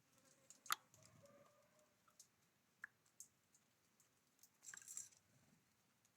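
Small birds at a feeder: scattered sharp taps and clicks of beaks pecking at seed, with a few short, faint high chirps and a brief rustle about five seconds in.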